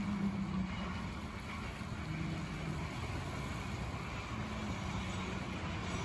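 Swiss SBB electric passenger train running past: a steady rolling rumble with a faint low hum.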